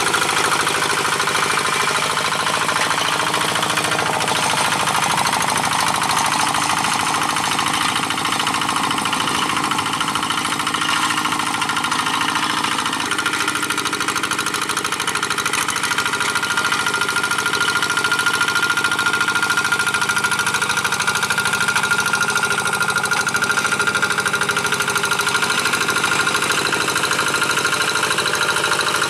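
Quick G1000 two-wheel hand tractor's single-cylinder diesel engine running steadily while pulling a moldboard plough through dry paddy soil, with a thin high whine that grows clearer about halfway through.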